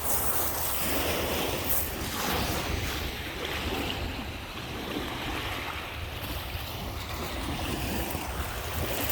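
Lake Michigan waves washing onto the shore in a steady, swelling rush, with wind rumbling on the microphone.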